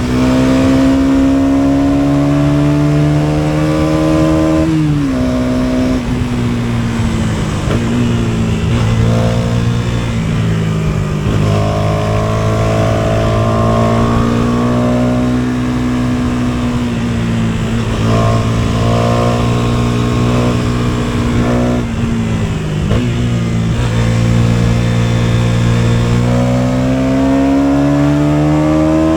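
KTM 250 Duke's single-cylinder four-stroke engine under way. Its pitch climbs as it accelerates, then drops sharply at each gear change, several times over, with steadier and slowly falling stretches between.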